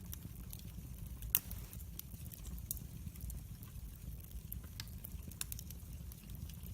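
Wood fire burning in a fireplace: a steady low rumble with scattered sharp crackles and pops, the loudest pop about a second and a half in.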